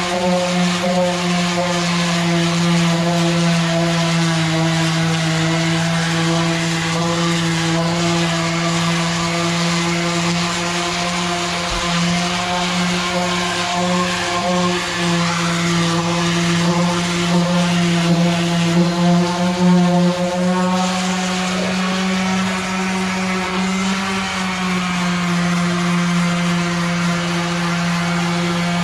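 Electric polisher running steadily on the truck's aluminum, a constant motor hum whose pitch sags briefly a few times as it is worked against the metal.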